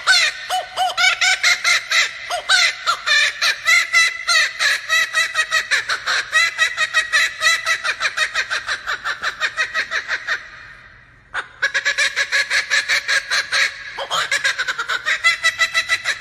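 Male laughing kookaburra giving its laughing call: a long run of rapid cackling notes, about six a second. The notes break off for about a second around ten seconds in, then start again.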